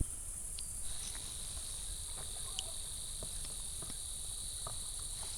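Insects trilling steadily in the summer countryside: a continuous high shrill chorus, joined about a second in by a single nearer insect holding one steady, lower trill, with a few faint ticks.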